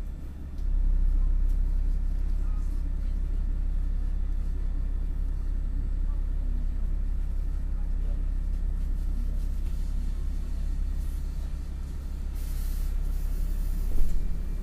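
MAN NL253 Hybrid city bus running with a steady low drone. About a second of compressed-air hiss comes near the end, followed by a short sharp bang.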